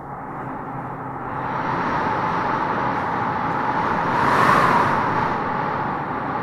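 Howling wind gusting through trees, swelling into a stronger gust about four seconds in and then easing off.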